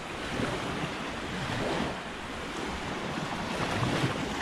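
Small sea waves washing onto the shore in soft swells, with wind buffeting the microphone.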